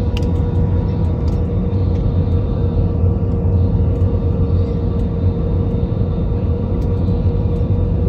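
Airliner cabin noise during landing: a loud, steady low rumble with a steady engine whine running through it.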